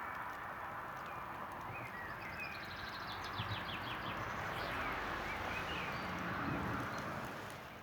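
Small birds chirping, with a quick trill of repeated high notes about three seconds in, over a steady outdoor hiss.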